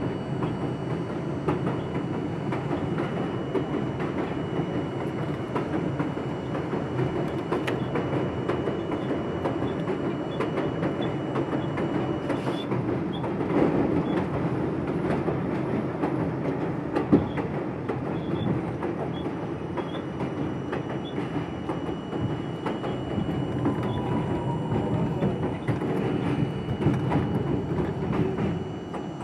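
R42 subway train running between stations on the elevated Jamaica line, a steady rumble of wheels on rail with faint rail-joint clicks. There is a single sharp knock about 17 seconds in.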